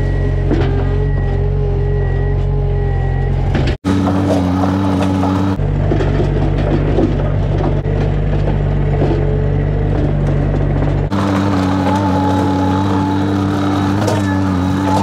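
Skid steer's diesel engine running steadily under work, in several edited clips: the engine note changes abruptly about four seconds in, again about a second and a half later, and again near eleven seconds.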